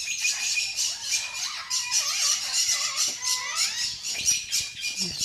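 A flock of small birds chirping and warbling together, a dense, continuous chatter of many overlapping calls with wavering, gliding notes.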